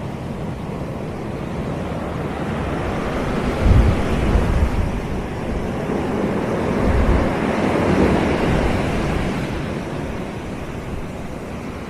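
Sea waves washing onto a beach: the surf builds to a louder break in the middle and then falls back. Low gusts of wind buffet the microphone about four and seven seconds in.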